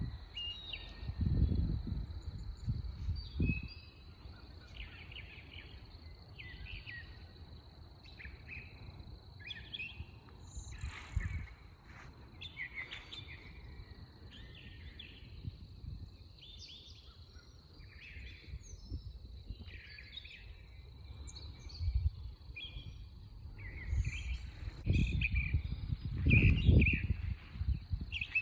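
Songbirds chirping repeatedly in short calls, over a steady thin high tone. Bursts of low rumble come near the start and again near the end.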